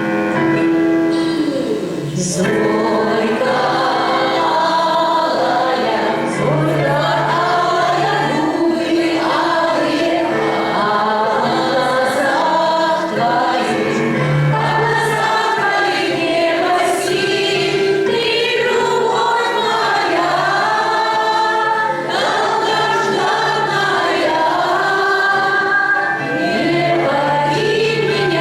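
A choir singing a song, with low notes held beneath the melody.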